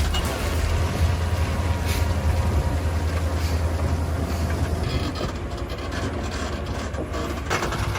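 Heavy diesel machinery running with a deep drone and irregular metallic clanking and rattling; the low drone drops away about five seconds in.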